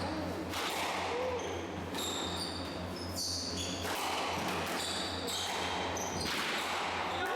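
Squash rally: the ball cracks off rackets and the court walls about once a second, with shoes squeaking on the court floor.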